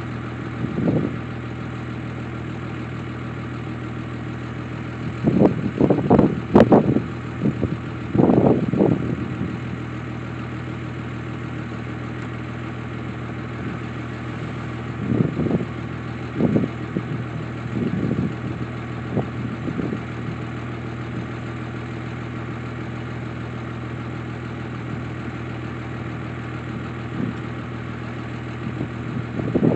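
An engine idling with a steady low hum, broken now and then by short, louder sounds.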